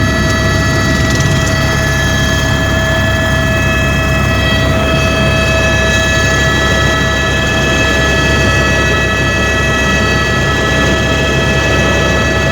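Helicopter in flight: a steady, loud rumble of the engine and rotor with several constant high whining tones from the turbine and gearbox.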